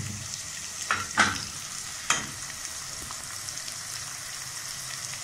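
Onion, tomato and ginger-garlic paste frying in oil in a pressure cooker: a steady sizzle, with a few sharp knocks of a utensil or lid about a second and two seconds in.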